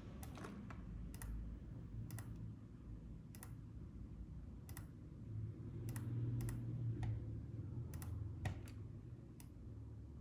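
Irregular, scattered clicks from a computer mouse and keyboard, about a dozen spread across the stretch, over a steady low hum.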